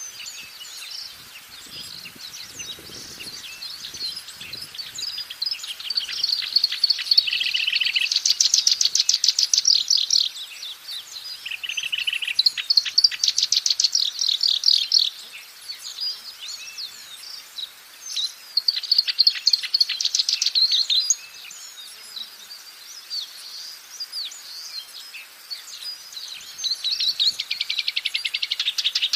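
Black-browed reed warbler singing: runs of rapid, repeated chattering notes lasting a few seconds each, with quieter spells between them.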